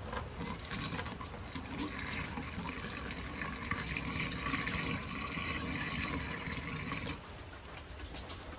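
RV antifreeze being poured into a sink drain: a steady pour of liquid that stops suddenly about seven seconds in.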